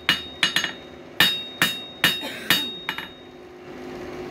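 Hand hammer striking a bent coil-spring steel screwdriver blank on the anvil to straighten it, about eight ringing blows roughly two a second that stop about three seconds in.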